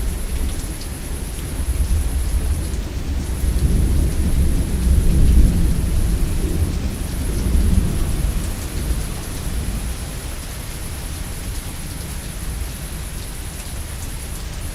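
Steady heavy rain with a long roll of thunder that builds, is loudest about five seconds in, and rumbles away by about ten seconds, leaving the rain.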